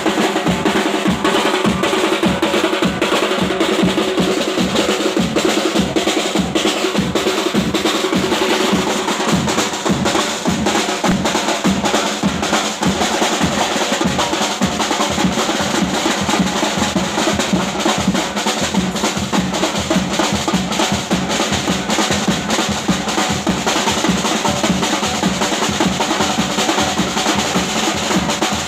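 Continuous loud drumming with a fast, steady beat.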